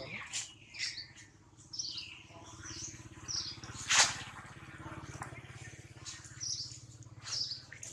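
Small birds chirping repeatedly, short high calls that keep coming, over a faint steady low hum. One sharp click about halfway through.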